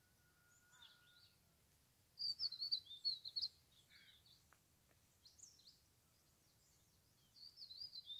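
Small songbirds twittering: a quick run of high chirps about two seconds in, a few scattered single calls, and another run near the end.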